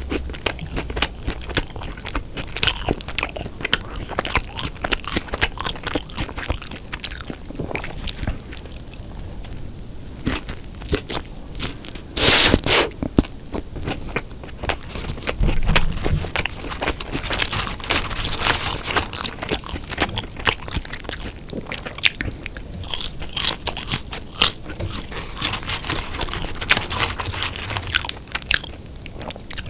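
Close-miked chewing of a fast-food beef burger, with steady irregular crunching and mouth clicks. A louder crunch comes about twelve seconds in, and another near sixteen seconds.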